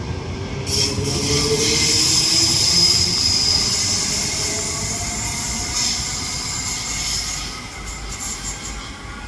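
Electric passenger train on the rails with a high-pitched wheel squeal that sets in sharply about a second in, over a low rumble. The sound slowly fades over the last few seconds.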